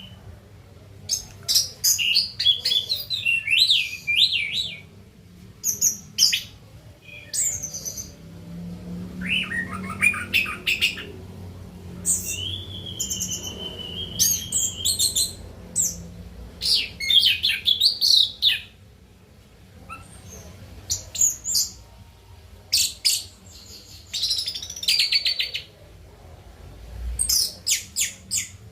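Orange-headed thrush singing: bursts of varied, fast warbling and chirping phrases with short pauses between them, including one long, steady whistled note about halfway through.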